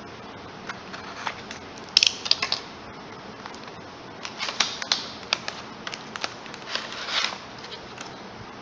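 Small product packaging being handled and opened by hand: irregular crinkling and sharp clicks, busiest about two seconds in and again in the second half.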